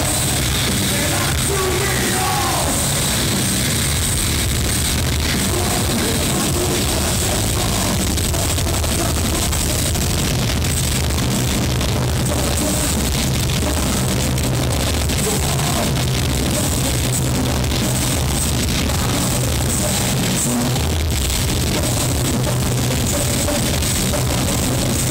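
Heavy metal band playing live at full volume: distorted electric guitars, bass and drum kit, loud and unbroken throughout.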